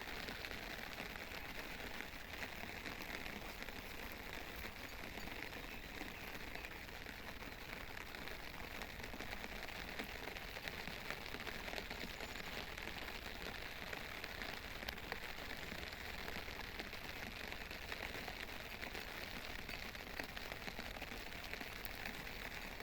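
Steady rain falling, an even hiss scattered with small drop ticks.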